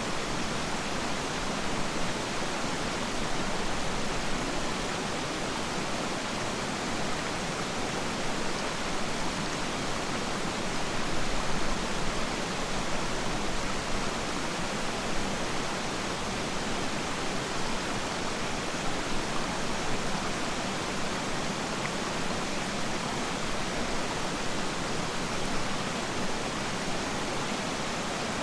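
Waterfall water rushing in a steady, even roar of noise with small swells in loudness.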